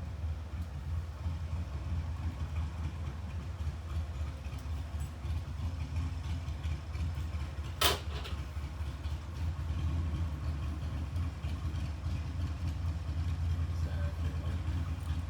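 A steady low mechanical hum from a running motor, with one sharp click about eight seconds in.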